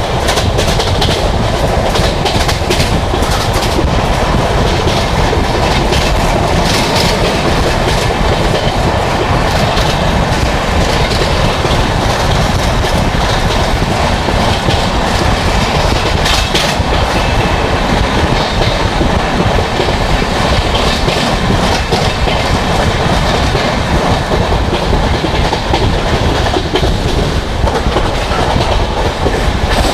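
Poorva Express train running at about 130 km/h: a steady, loud rush of wheels on rail, with clickety-clack and scattered sharp clatters from the track.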